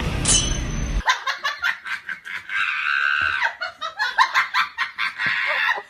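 Music cuts off about a second in, followed by high-pitched laughter in quick bursts, with a longer held squeal in the middle.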